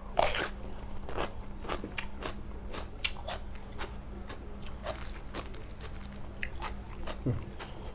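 A person chewing mouthfuls of blanched-shrimp laab: irregular crunchy bites and wet mouth clicks, the loudest bite right at the start.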